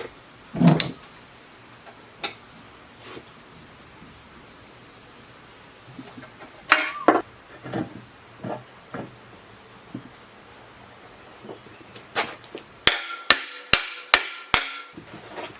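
Scattered knocks and taps from hand-tool work, ending in a quick run of about five sharp hammer strikes near the end. Insects chirr steadily in the background.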